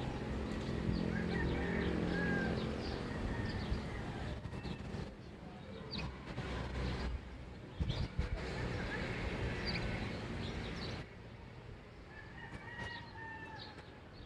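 Early-morning neighborhood ambience: birds chirping on and off, with a motor vehicle's engine passing and fading away during the first few seconds.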